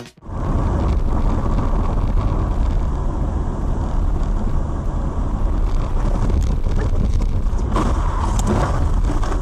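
Steady, loud rumble of a car on the move: engine and road noise picked up by a dashcam's microphone, cutting in abruptly. A few brief, brighter sounds come in near the end.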